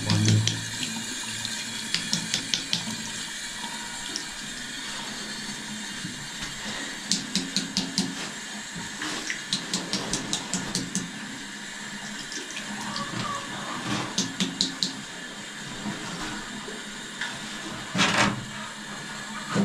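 Water rushing steadily from a household tap or pipe fitting under strong mains pressure, with several runs of quick clicks or taps and a louder knock near the end.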